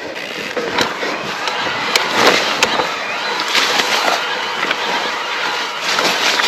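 Electric mountain bike rolling over rough, stony ground: tyres crunching on loose stones, with frequent clicks and knocks from the bike rattling over the bumps.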